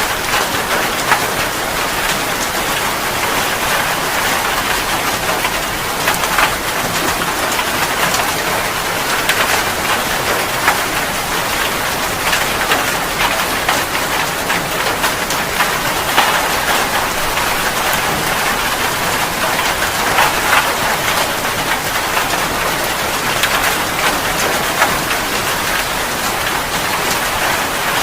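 Steady rain falling on a surface, with many individual drops ticking sharply through the even hiss.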